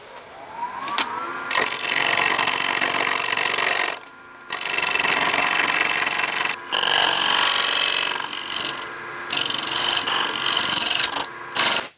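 Wood lathe spinning up with a rising whine, then a turning tool cutting the wooden blank in several long passes with short pauses between, the motor's whine running underneath; the cuts size a tenon for a chuck.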